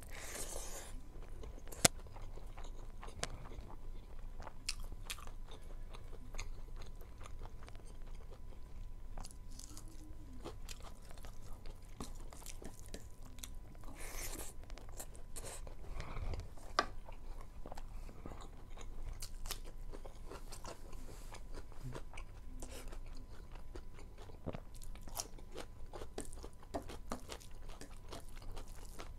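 Close-up chewing and biting of rice and meat eaten by hand, with crunching and many small wet clicks from the mouth. A sharp click about two seconds in is the loudest sound, and there are short hisses just after the start and about halfway through.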